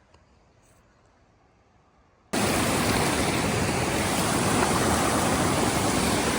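Near silence for about two seconds, then loud, steady rushing water cuts in abruptly.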